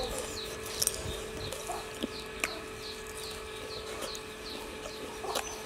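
A dung beetle being chewed, with a few sharp crunches, over a steady run of short, high, falling chirps from birds, about two a second.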